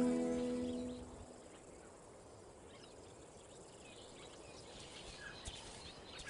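Background music with long held notes fades out over the first second, leaving faint outdoor bush ambience. A few soft bird chirps come in near the end.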